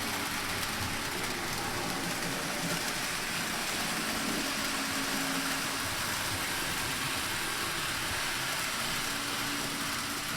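N scale model train running on the layout track, a steady whir from the locomotive's small motor and wheels, with a faint low hum that comes and goes.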